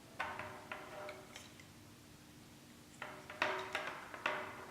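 Small construction-kit parts clicking and knocking as they are handled and fitted together: a few sharp clicks just after the start, a pause, then a quicker run of clicks and taps in the last second and a half.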